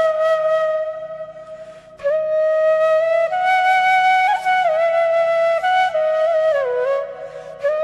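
Background music: a solo flute playing a slow, held melody in long phrases, pausing briefly twice between them.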